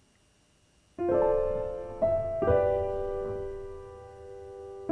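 Solo piano background music: near silence for about the first second, then soft chords struck about a second apart and left to ring and fade.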